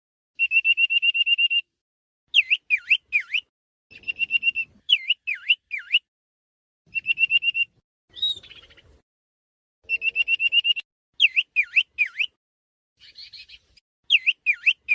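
A Huýt Cô bird singing a repeating whistled phrase: a quick trill followed by three swooping whistles that dip and rise. The phrase comes about every three seconds, with a couple of shorter odd calls between.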